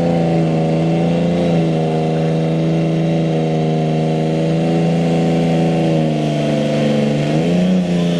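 Super stock pulling tractor's engine running hard at a steady high pitch under load, then revving up sharply near the end.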